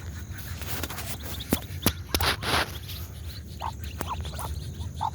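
Ducks feeding close by: a few short soft calls among scattered sharp clicks, with a brief rustle a little over two seconds in.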